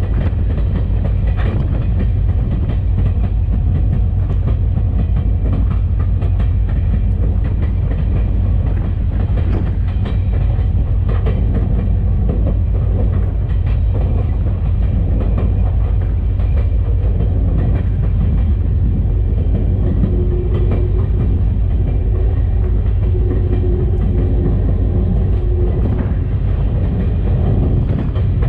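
EMD SD40-2 diesel locomotive running down the track, heard from the outside of its short nose: a steady, loud low rumble with scattered clicks of the wheels over the rail.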